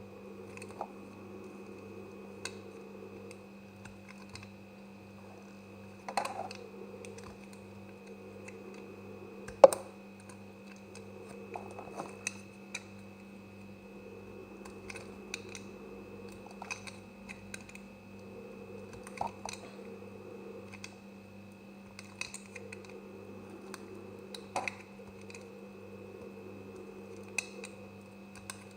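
Knife cutting through semi-dry soap: crisp crunching clicks at irregular intervals, the sharpest about ten seconds in, over a steady background hum.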